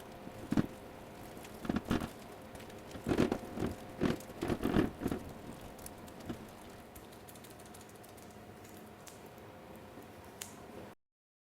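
Irregular light knocks and taps over a faint steady hum, most of them in the first half; the sound cuts off to silence near the end.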